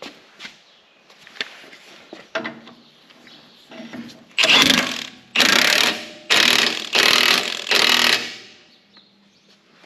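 Impact wrench run in several short bursts, each under a second, starting about four seconds in, hammering nuts tight on loader mounting bolts. Before that come a few faint knocks of tools and parts being handled.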